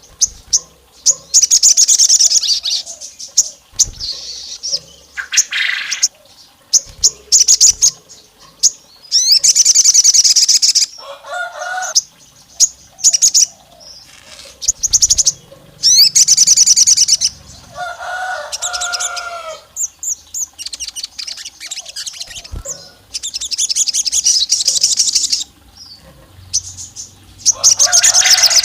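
A sogon songbird calls in repeated bursts of rapid, high chirping trills, each lasting a second or two with short gaps between. A few lower, doubled call notes come in between the bursts. It is a call that bird-keepers liken to a female calling a male, used as a lure to set males calling.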